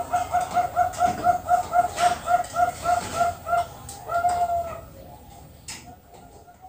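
Zebra dove (Bangkok perkutut) singing: a fast run of short, even cooing notes, about four to five a second, ending in one longer drawn-out note, after which the sound drops away.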